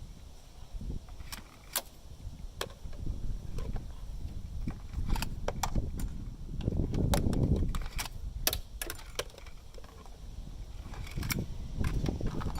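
Irregular sharp metallic clinks and light rattles of hand tools and metal parts being handled, over low knocking and shuffling handling noise.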